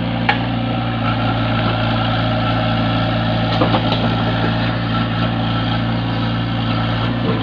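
Heavy diesel engine of construction machinery running steadily, with a sharp click just after the start and a few light knocks near the middle.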